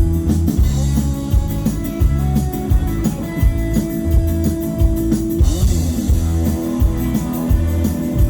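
Live country-rock band playing an instrumental break between sung lines: guitar over bass and drum kit with a steady beat.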